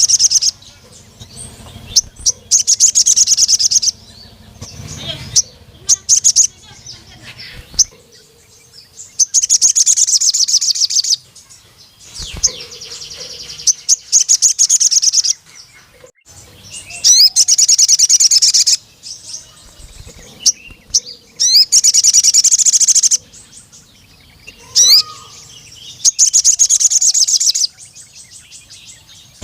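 Male sogon bird singing in long bursts of rapid, high-pitched chirping trills, each lasting one to three seconds, repeated over and over with short pauses between.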